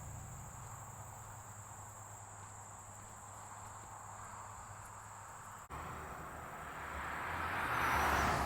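Insects droning with a steady high-pitched tone. After a cut about two-thirds of the way in, a rushing noise swells and is loudest near the end.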